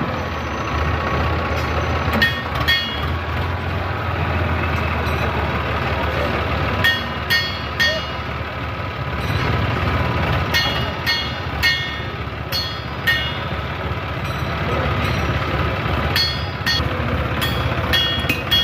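Heavy diesel engines running steadily with a low rumble, with many short, sharp, high chirps scattered over it.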